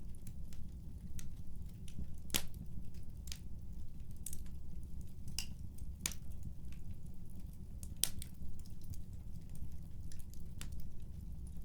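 Wood fire crackling: irregular sharp pops and snaps, the loudest about two, six and eight seconds in, over a steady low rumble.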